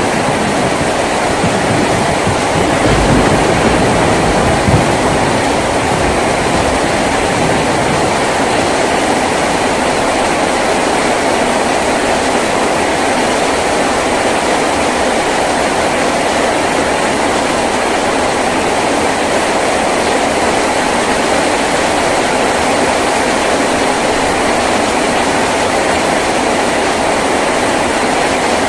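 Heavy rain drumming steadily on a tin roof, a dense even wash of noise, with a low rumble underneath for the first few seconds.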